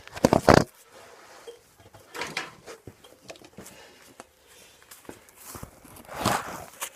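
Handling noises: a few knocks and rustles as objects are picked up and moved. The loudest comes right at the start, with softer bumps about two seconds in and near the end.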